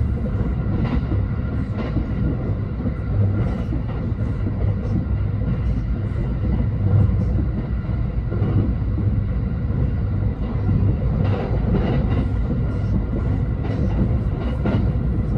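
Passenger train running, a steady low rumble with scattered faint clicks.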